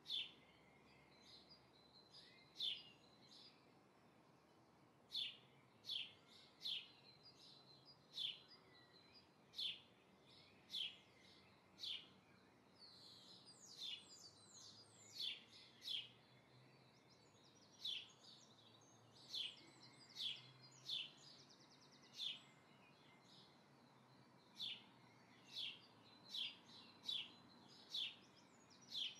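A small bird chirping over and over: short, high, downward-sliding chirps roughly once every second or so, with a quicker run of chirps about halfway through, over a faint steady hiss.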